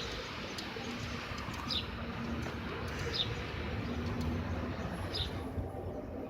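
A bird chirping: short, high, falling chirps that come about every one and a half to two seconds, over steady background noise.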